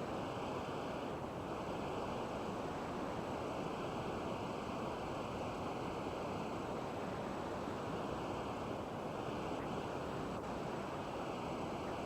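Steady hiss-like static with a faint constant high whine, typical of an old videotape recording with no programme sound.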